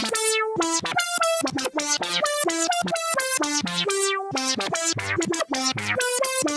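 Xfer Serum software synthesizer preset playing a quick melodic line of short, separate notes, about four or five a second, each bright at the attack and quickly turning dull.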